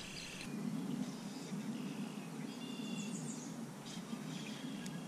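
Faint bird chirps over a steady low background rumble.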